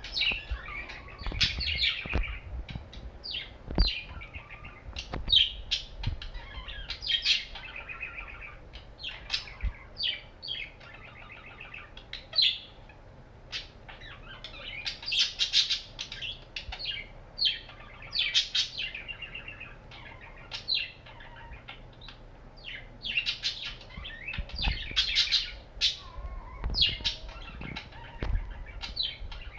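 Budgerigars chirping and chattering in quick, high-pitched bursts, with a few low thumps.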